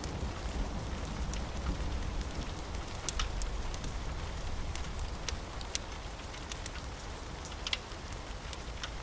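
Steady rain, with scattered sharp ticks and pops over it.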